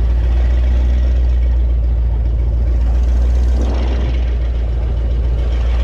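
The 2002 Donzi Classic 22's inboard engine running steadily with a deep, even drone.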